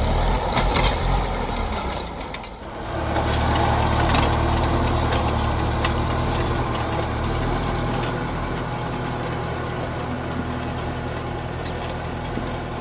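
An engine running steadily with a low hum, dipping briefly about two and a half seconds in and then running on evenly, slowly growing fainter.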